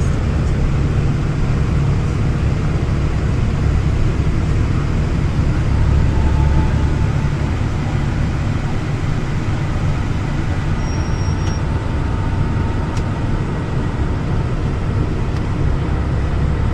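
Train in motion, a steady low rumble with a few faint clicks in the second half.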